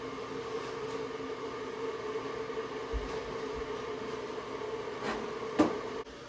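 Steady mechanical hum from a running household appliance, with a couple of light knocks and a sharp click near the end, after which the hum gets quieter.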